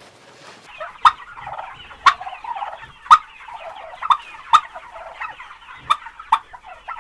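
Turkeys gobbling: a continuous rapid chatter of calls, broken by sharp, loud calls roughly once a second.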